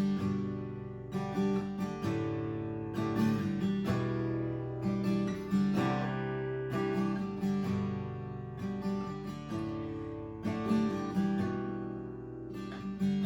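Acoustic guitar strumming chords in a steady pattern, about one strum a second, with no singing.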